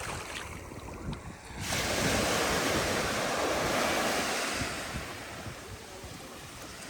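Sea waves breaking on a sandy beach, with wind buffeting the microphone. About a second and a half in, a wave breaks with a sudden loud wash of surf that lasts about three seconds, then fades.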